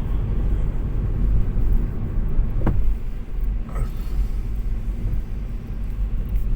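Car interior noise while driving: a steady low rumble of engine and tyres on the road, with a faint click or two partway through.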